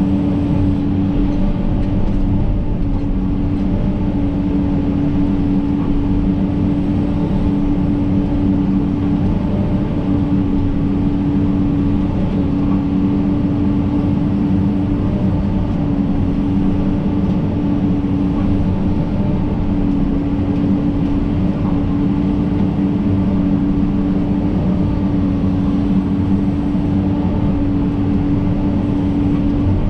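John Deere 130G excavator running steadily under its diesel engine, with a constant hum that holds one pitch.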